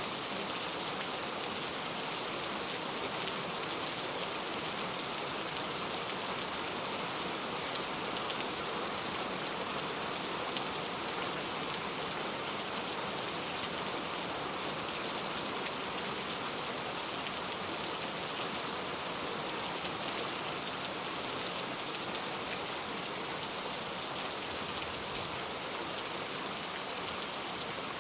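Steady rain falling: an even, unbroken hiss of many drops that neither swells nor fades.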